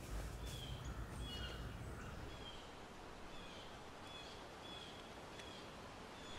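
Woodland and meadow ambience: short bird chirps repeat about once or twice a second over a faint steady hiss. A low hum underneath fades out about a third of the way in.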